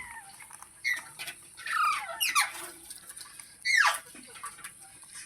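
Green ringneck parrot calling: several sharp, short screeches that slide down in pitch, the longest about four seconds in.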